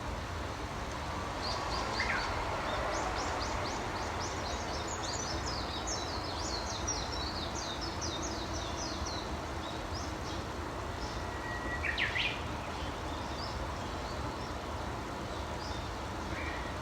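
Wild songbirds singing: a long run of quick, high chirps lasting several seconds, with a few separate shorter calls about two seconds in and again about twelve seconds in, over a steady low background rumble.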